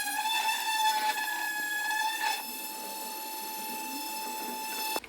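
Electric sander running with a high whine whose pitch wavers while it works softened clear coat off a metal tabletop. From about halfway in the pitch holds steady, and the sound cuts off sharply near the end.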